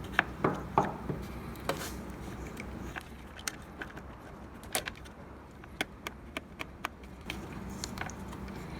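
Scattered light clicks and taps of hand tools and small plastic parts being handled while the pump of a Breville espresso machine is disconnected, with a quick run of clicks in the second half.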